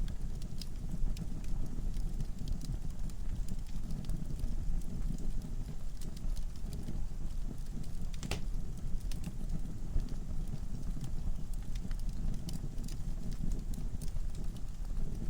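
Wood fire burning in a fireplace: a steady low rumble of the flames with scattered crackles and pops from the logs, one louder pop about eight seconds in.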